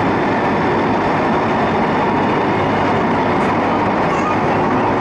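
Steady running noise of an MTR East Rail Line MLR electric train in motion, heard from inside the passenger car.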